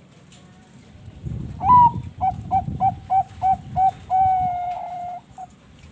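Bangkok-strain zebra dove (perkutut) cooing. It opens on a higher note, runs through about seven short, evenly spaced coos at roughly three a second, then holds one long note and ends with a brief final coo.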